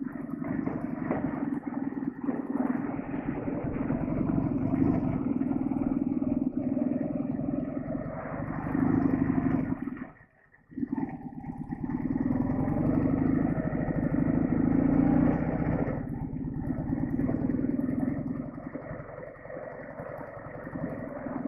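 Heavy Soviet-built flat-twin motorcycle engine running under way, its level rising and falling with the throttle. It breaks off abruptly for about half a second around ten seconds in.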